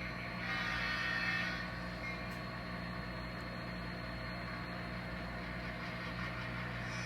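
Sound-equipped N scale diesel locomotive's engine running steadily at idle, with a brief rushing hiss in the first second and a half.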